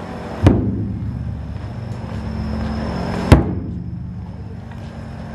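Large taiko drum struck twice with heavy single beats about three seconds apart, each ringing out briefly, over a steady low engine-like hum.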